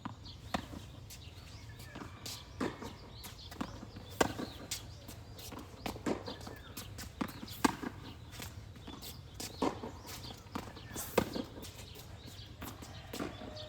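Tennis rally: racket strikes on the ball and ball bounces on the court, sharp knocks coming about once or twice a second at uneven spacing, with footsteps between.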